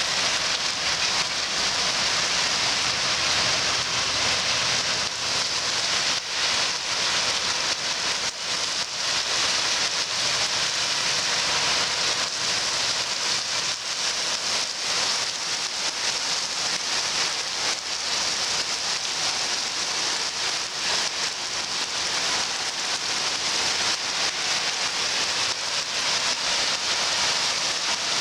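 Heavy rain pouring down steadily, a dense hiss of drops striking surfaces with many small individual drop impacts.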